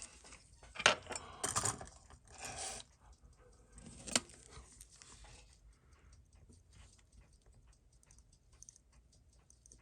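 Small metal tools and watch parts handled on a bench, with sharp clicks and rustling in the first few seconds and one sharp click about four seconds in. From the middle on, the Seiko 6139 automatic chronograph movement ticks faintly and evenly, about six ticks a second: the movement is running again.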